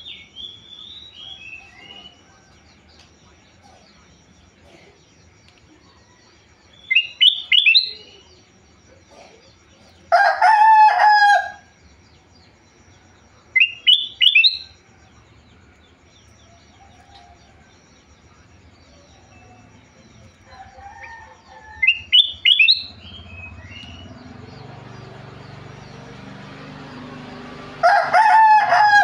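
A kutilang emas bulbul sings short, clear whistled phrases, a burst every few seconds. A rooster crows twice, louder and lower, about ten seconds in and at the very end. From about two-thirds of the way through, a steady motor noise builds underneath.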